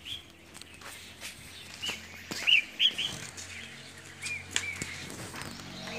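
Small birds chirping: a scattering of short chirps, the loudest and closest pair about halfway through, with a few faint clicks among them.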